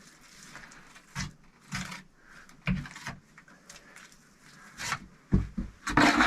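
Bricks being handled and set in place: irregular knocks and short scrapes, with a longer, louder scrape near the end.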